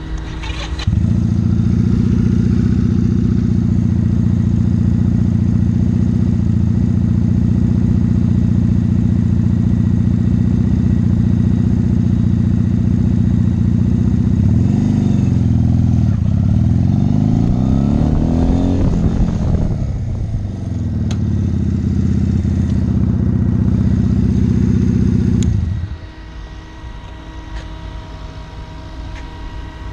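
A motorcycle engine heard from the bike. It comes up about a second in and runs at a steady pitch. About halfway it revs up and down in a few quick glides during the swerve run, then holds steady again. Near the end it drops back sharply as the bike stops.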